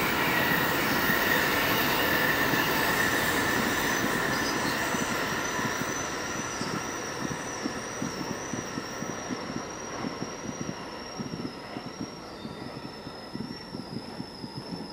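A train running past and fading into the distance, its rumble slowly dying away. From about three seconds in, a thin, high, slightly wavering squeal from the wheels rides over it.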